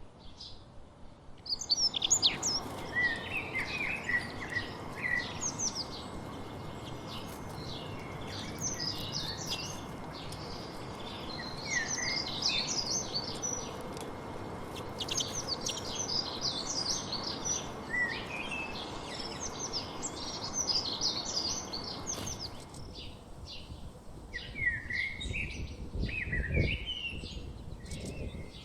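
Several small birds chirping and twittering in quick, overlapping runs of short high notes. Underneath them runs a steady low rushing noise that stops about three quarters of the way through. A few low thuds come near the end.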